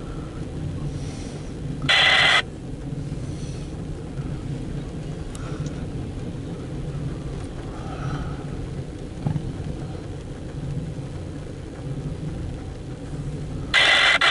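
Steady low rumble of a parked vehicle's engine idling, heard from inside the cabin. Two loud short bursts of radio scanner static cut in, about two seconds in and again near the end.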